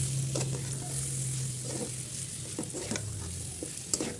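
Beef liver pieces frying and sizzling in spiced oil in a metal karahi as a metal spatula stirs them, with irregular scrapes and knocks of the spatula against the pan.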